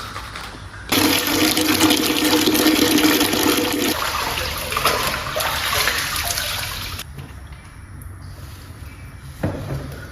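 Toilet flushing: a sudden rush of water starts about a second in, with a steady tone under it for the first few seconds, and dies away after about six seconds. A short knock comes near the end.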